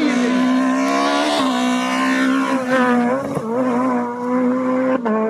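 Rally car engine running hard at a steady pitch, with three brief dips where the note breaks and picks up again.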